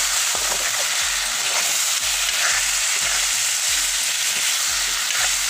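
Chicken and banana flower frying in a kadai: a steady sizzle, with the scrape of a metal spatula as the mixture is stirred and turned.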